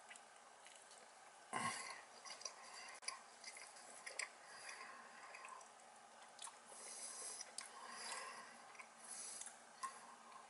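A person chewing a mouthful of steak fajita in a soft flour tortilla: faint wet mouth sounds and small clicks, with one louder sudden sound about a second and a half in.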